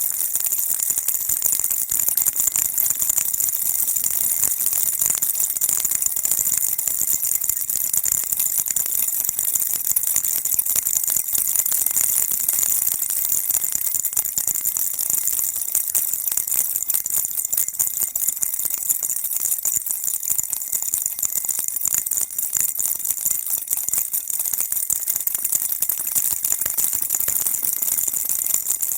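Baby rattle shaken continuously: a steady, bright, high-pitched rattling that goes on without a break.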